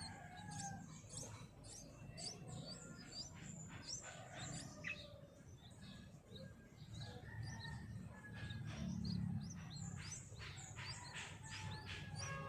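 Small birds chirping: many short, quick calls overlapping throughout, over a low rumble.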